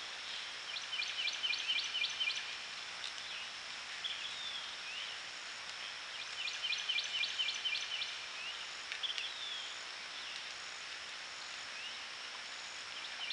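Wild birds singing: one repeats a quick run of about seven short notes twice, some five seconds apart, while other birds give short sliding chirps in between, over a steady high hiss.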